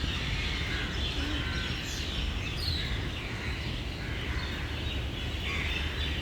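Outdoor ambience: birds chirping a few times over a steady low rumble and hiss.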